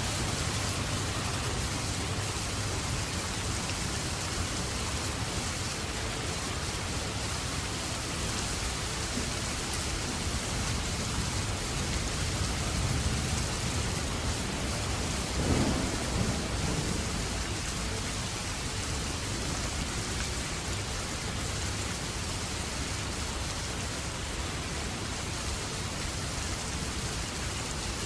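Steady rain. About halfway through, a low rumble of thunder swells and fades over a couple of seconds.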